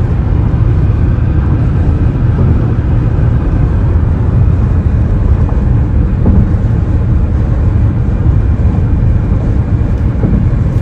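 Steady low rumble of road and wind noise from a car driving on the highway.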